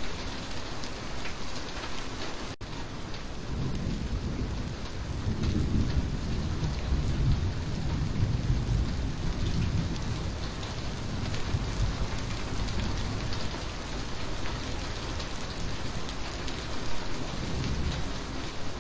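Steady rain, with a low roll of thunder building a few seconds in and rumbling for several seconds before fading.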